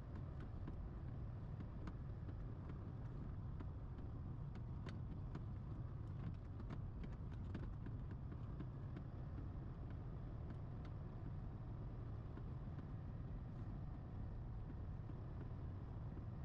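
Dump truck engine running with a steady low rumble, with scattered light clicks and ticks over it.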